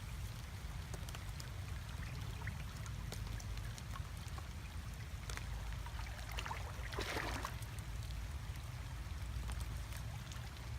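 Water splashing and trickling, with scattered drips and a louder splash about seven seconds in, over a steady low rumble.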